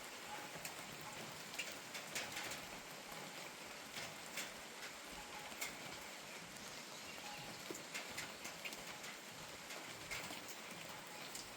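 Steady rain falling, an even wash of noise with single louder drops tapping at irregular moments on a nearby surface.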